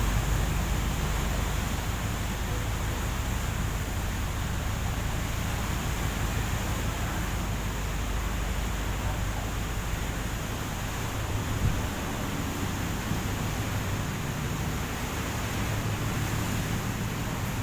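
Steady low rumble of a ship's engines with wind and sea noise, the deepest part of the rumble easing a little after about ten seconds.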